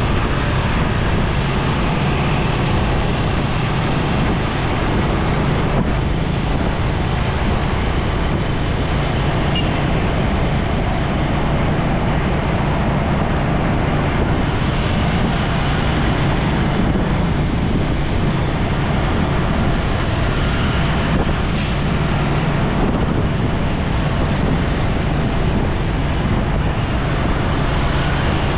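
Steady road noise heard while riding a motorcycle in city traffic: the bike's engine drone under the rush of wind and surrounding traffic.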